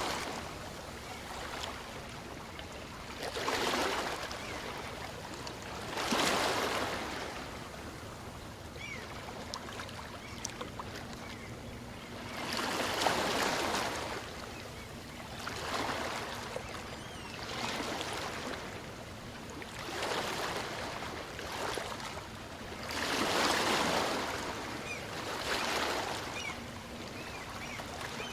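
Small waves of a calm sea breaking and washing in, about every two to three seconds, each a swell of surf that rises and fades away.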